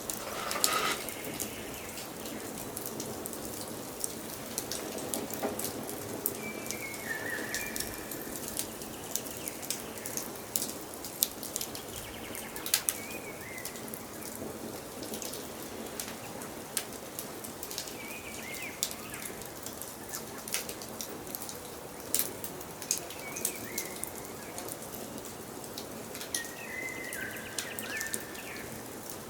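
Wood fire crackling, with frequent sharp pops over a steady hiss. A bird gives a short call, falling in pitch, every few seconds.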